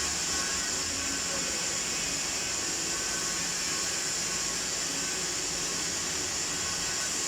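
MIG welding arc running on steel: a steady, unbroken hiss.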